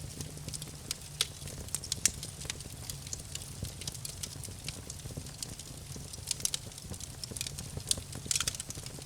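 Campfire crackling: scattered sharp pops and snaps of burning wood, with a quick cluster of them near the end, over a steady low rumble of the fire.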